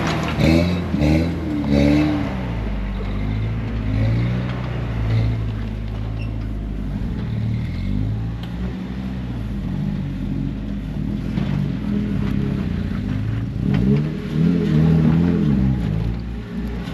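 Off-road 4x4 engine revving in short bursts, rising and falling, with a steadier low drone between. A longer rise in revs comes about fourteen seconds in.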